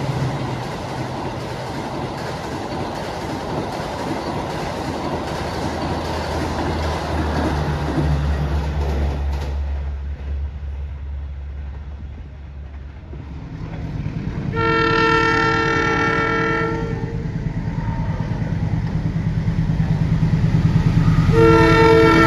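Passing train rail noise that fades over the first ten seconds, then an approaching diesel locomotive whose engine drone grows louder. It sounds its multi-tone horn for about two seconds, then again near the end as it draws closer.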